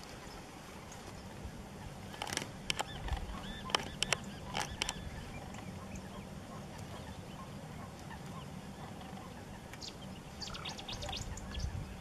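Bird calls: a quick run of short, sharp calls about two seconds in, and another run near ten seconds, over a steady low hum.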